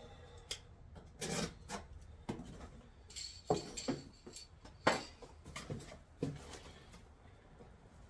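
Irregular handling noises: scattered knocks and clicks with short bouts of rubbing and scraping as objects are moved and set down on a work surface.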